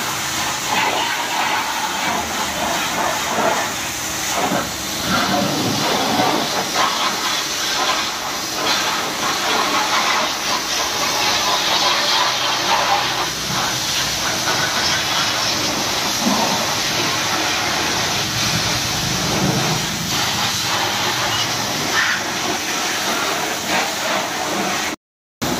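High-pressure washer jet spraying water, a steady loud hiss that cuts out briefly near the end.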